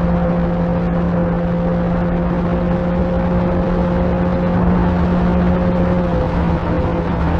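Electric motor and propeller of an FMS 1500mm Cessna 182 radio-control model plane in flight, running with a steady hum over rushing air noise.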